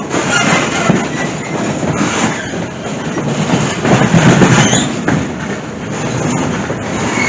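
Passenger train car rolling along the track: a steady rumble and clatter of wheels on rail, loudest about four seconds in, with a brief high wheel squeal near the end.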